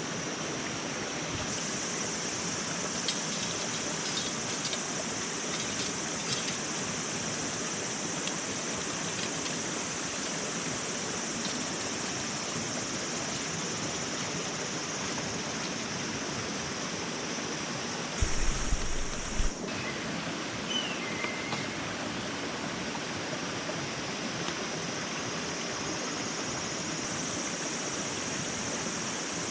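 Steady rushing noise like flowing water, with a brief louder low rumble about two-thirds of the way through.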